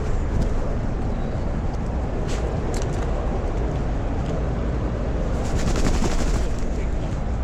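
Steady low rumble of outdoor noise on a small action camera worn by a walking dog, with a rapid rattle of clicks about five and a half seconds in that lasts about a second.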